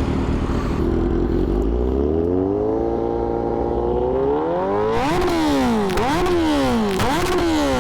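Kawasaki Z900 inline-four with an Austin Racing aftermarket exhaust, revving on the move: the engine note climbs steadily and holds, then a bit past halfway rises and drops sharply four times in quick succession.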